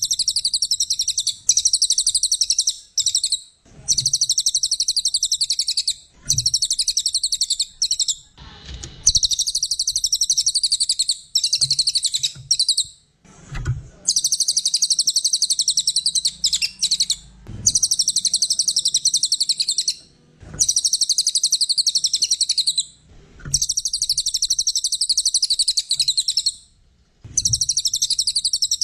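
A cililin songbird singing loudly and rapidly, high-pitched chirps run together in phrases of two to four seconds with short pauses between them, about nine phrases in all.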